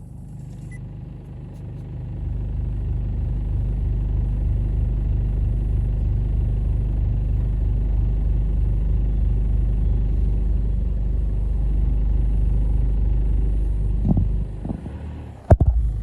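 Car on the move, its engine and road noise a steady low rumble. It grows louder about two seconds in, holds steady, then drops away near the end with a sharp click.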